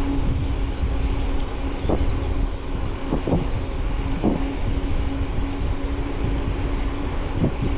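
Riding noise picked up by a bike-mounted camera: steady low rumble and wind on the microphone, with a steady hum and a few short knocks or rattles about 2, 3 and 4 seconds in.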